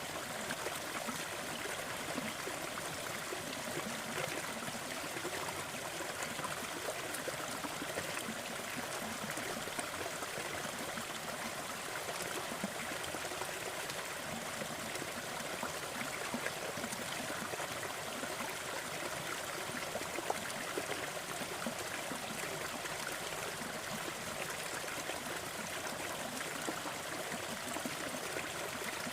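Crackling fire over a steady rushing noise bed, with scattered small pops and snaps.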